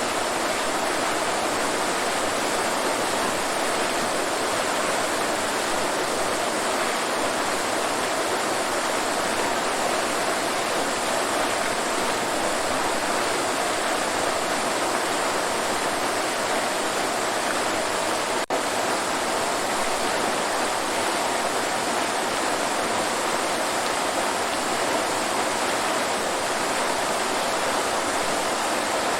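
Waterfall: a steady, even rush of falling water, with a momentary break in the sound about two-thirds of the way through.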